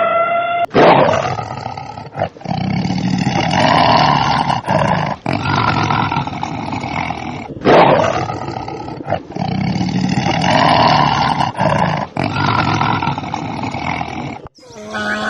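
A large animal roaring: a sudden loud onset followed by several seconds of rough, drawn-out roaring, and the same passage heard a second time about halfway through.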